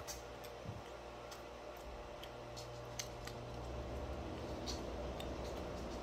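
A person chewing a mouthful of pan-seared salmon and brown rice with the mouth closed: scattered small wet clicks at an irregular pace, over a steady low hum.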